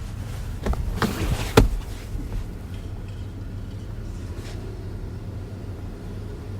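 A few sharp clicks and knocks, the loudest about one and a half seconds in, over a steady low hum.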